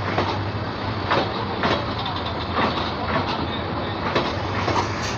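Intercity passenger train with PT Inka-built coaches rolling past along the platform, its wheels clacking over the rail joints every half second to a second over a steady rumble and low hum.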